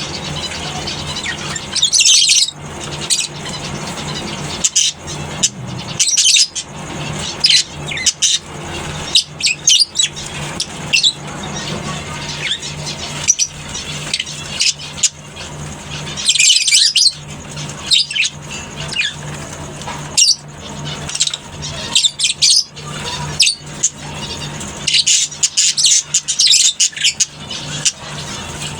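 A colony of lovebirds chattering, with loud high-pitched calls breaking out in repeated bursts every few seconds. A steady low hum runs underneath.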